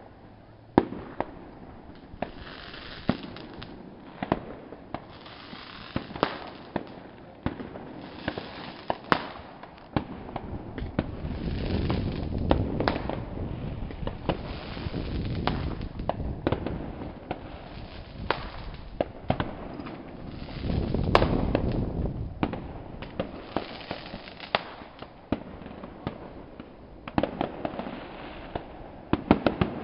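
Fireworks display: a steady run of aerial shell bursts, sharp bangs every second or so over a continuous rumble and hiss. The show gets busier and louder about ten to thirteen seconds in and again around twenty-one seconds in.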